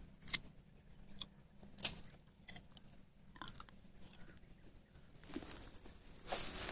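Footsteps in dry brush: a few separate sharp snaps and crackles of dry leaves and twigs, then a louder rustle of foliage being pushed through near the end.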